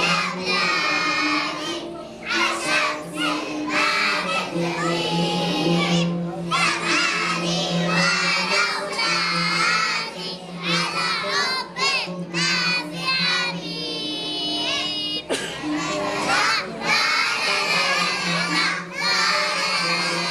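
Young children singing a patriotic Arabic song over a backing music track with sustained low notes, one boy's voice belting out at the top of his voice.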